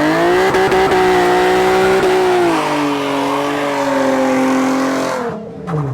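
Car engine revved hard and held at high rpm through a loud exhaust, easing down a little partway through, then let off near the end with the pitch falling away.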